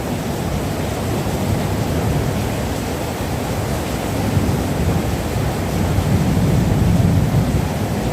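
Heavy rain falling steadily, heard as a low rushing noise that swells a little near the end.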